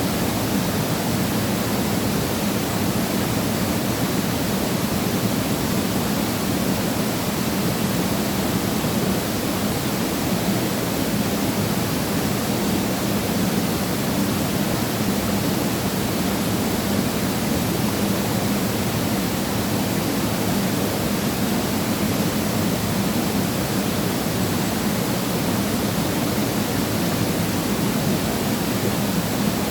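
Waterfall pouring, a steady even rush of falling water that does not change.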